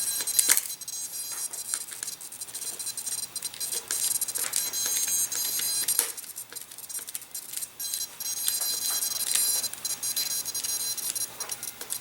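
High-pitched steady electronic whine from the powered-up model airplane electronics, with small clicks and rustles as the wires and parts are packed into the fuselage.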